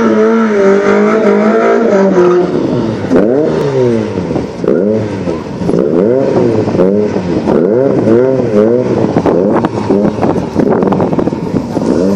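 Volkswagen Golf engines revving at the start line: held at high revs for the first couple of seconds, then blipped up and down about once a second in repeated rising-and-falling revs.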